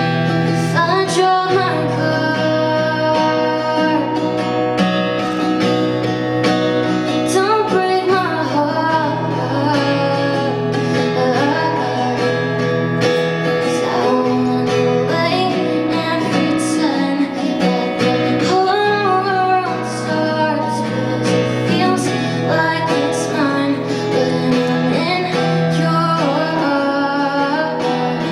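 A woman singing a love song with guitar accompaniment.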